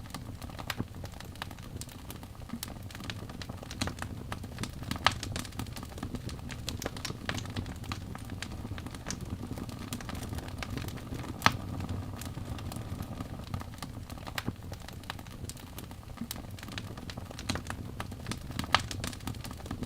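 Birch logs burning in a fireplace: a steady low rumble of flame with irregular sharp crackles and pops, a few louder snaps among them.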